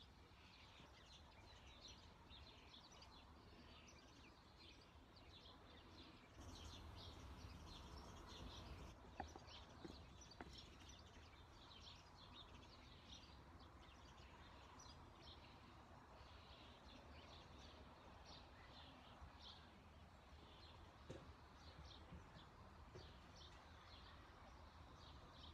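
Faint songbirds chirping and singing on and off, with a steady low outdoor rumble that swells for a few seconds about six seconds in.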